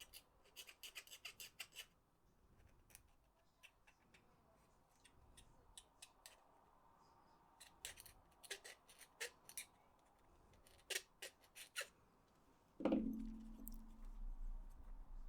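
Small, sharp clicks and scratches of PS4 controller parts being handled and worked on by hand, then one louder knock near the end with a brief low ring.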